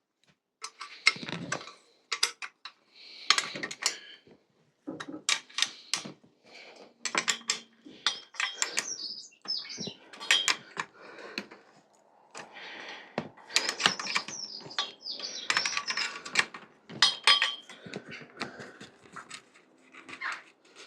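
Irregular clicks, clinks and clatters of metal tools and small bicycle parts being handled and set down while a bike is taken apart by hand.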